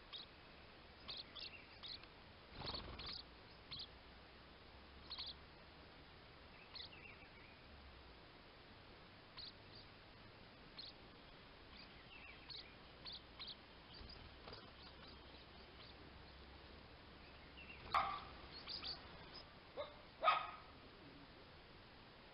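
Faint, scattered bird chirps, short and high, spread through the quiet. Near the end come two louder short calls, a couple of seconds apart.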